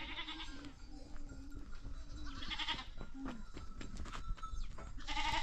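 Goats bleating, three calls spread across the few seconds, with scattered light knocks and clicks in between.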